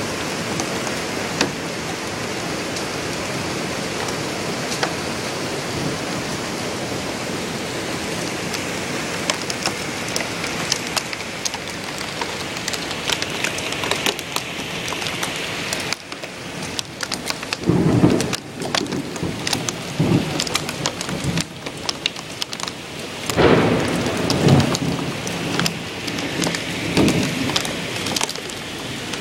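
Heavy rain pouring steadily in a thunderstorm. From about halfway through, loud low rumbles of thunder swell up several times, the strongest two near the middle and about three quarters of the way in.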